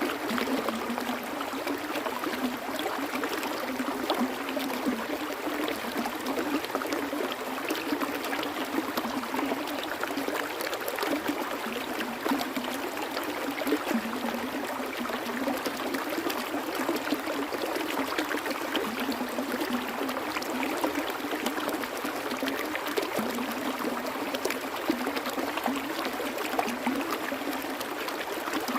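Water flowing steadily in a stream, a dense splashing and trickling with many small bright drips and no let-up.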